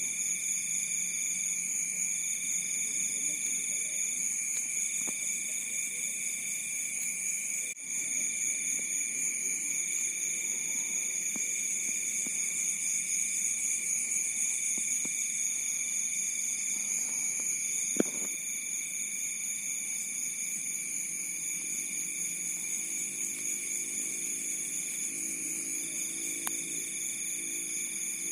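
Chorus of crickets and other insects: several steady, high continuous trills, with one insect singing repeated trills about a second and a half long with short pauses between. A single sharp click sounds about two-thirds of the way through.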